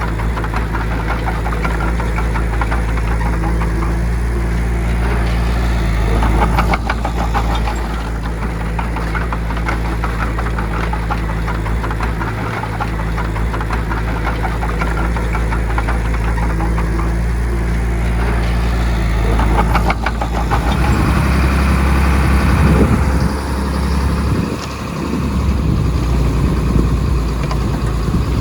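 Heavy diesel earthmoving machinery engine running steadily. About twenty seconds in the sound grows louder and less even, its pitch shifting.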